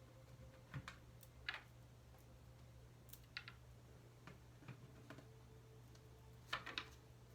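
Faint, scattered light taps and clicks of tarot cards being handled during shuffling and drawing, a few isolated ones with a quick pair near the end.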